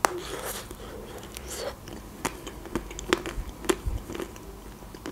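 Biting into a chocolate-coated Milka ice cream bar, with a sharp crack right at the start, then chewing the ice cream with scattered wet mouth clicks.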